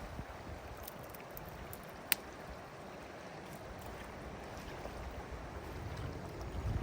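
Fast-flowing river rushing steadily, with one sharp click about two seconds in.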